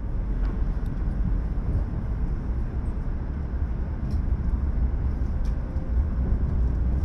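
JR East E5 series Shinkansen train pulling out of the station, a steady low rumble with a few faint ticks.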